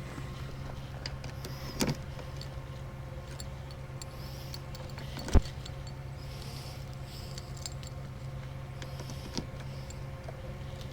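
Rollback tow truck's engine running with a steady low drone, with a short knock about two seconds in and a sharper, louder one about five seconds in.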